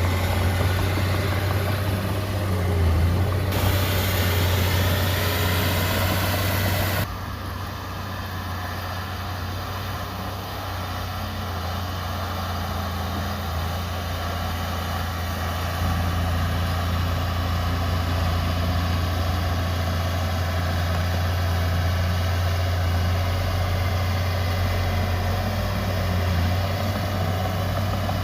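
Heavy construction machine's diesel engine running steadily with a deep drone. About seven seconds in, the sound abruptly becomes quieter and duller.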